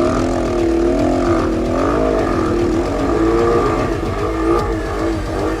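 Enduro dirt bike engines revving up and down, the pitch rising and falling with the throttle, over a steady low rumble.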